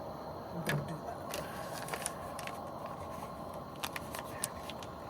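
Light crinkling and scattered clicks of a plastic bag being handled, over the steady hiss of a pot of water boiling.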